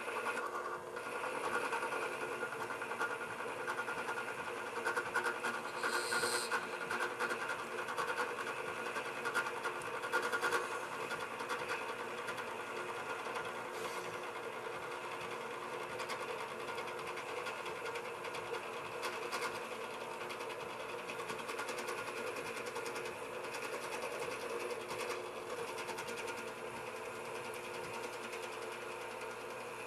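Drill press set up as a lathe, running with a steady motor-and-spindle hum made of several fixed tones, louder and rougher for several seconds starting about five seconds in.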